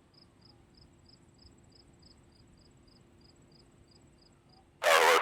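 Faint cricket chirping, evenly spaced at about three chirps a second, over a low steady hum. Near the end a loud air traffic control radio voice cuts in.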